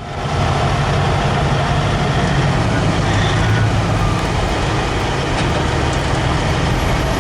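Heavy truck engine running loud and steady, with a deep rumble.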